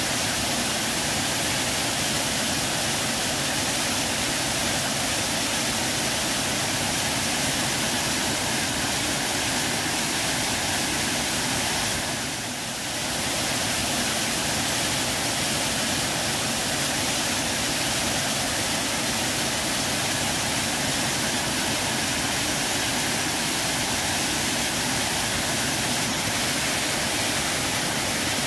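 Waterfall: a steady, dense rush of falling water, with a brief dip in level about twelve seconds in.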